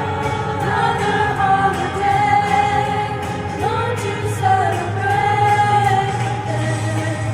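School choir singing, the voices holding long notes and moving smoothly between pitches.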